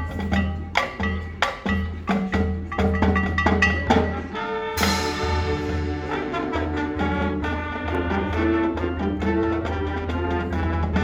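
High school marching band playing its field show: sharp percussion strikes with mallet percussion for the first few seconds, then the brass section enters together about five seconds in with sustained chords over the drums.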